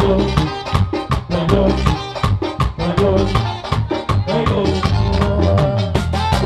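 Live bachata band playing an instrumental passage: melodic lines over a fast, steady percussion beat.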